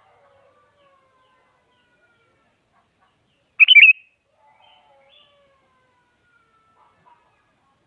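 Sooty-headed bulbul giving one short, loud burst of fast chattering song about three and a half seconds in, with faint lower whistles in the background.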